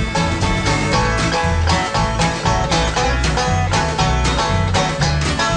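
Instrumental break of a fast hillbilly bluegrass song: a banjo picking quick runs over guitar and a steady bass beat.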